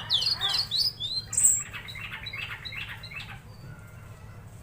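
Tledekan laut singing: a quick string of sharp whistled notes sliding downward, then a fast, scratchy run of repeated notes that fades out a little past three seconds in. A steady low hum runs underneath.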